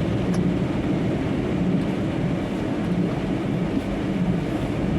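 Steady low rumble of a vehicle's engine and running noise, heard from inside the cab while crawling in slow traffic.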